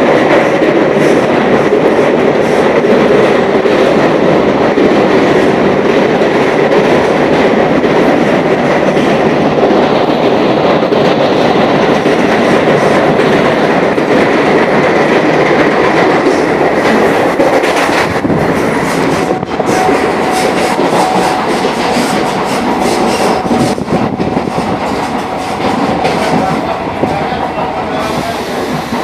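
DEMU passenger train running at speed: a loud, steady rumble of wheels on rail, with sharp clacks over the rail joints in the second half and a thin steady whine alongside.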